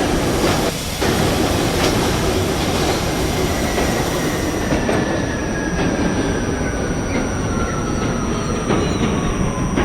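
R68A subway train running on the track: steady wheel-and-rail rumble with clicks over rail joints, and a thin whine that falls steadily in pitch over the last several seconds as the train slows.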